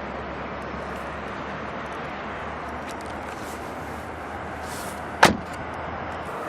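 A car door shutting with a single sharp thud about five seconds in, over a steady background hum.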